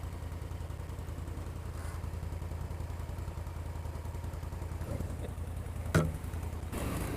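ATV engine running steadily at low revs, with a single sharp knock about six seconds in.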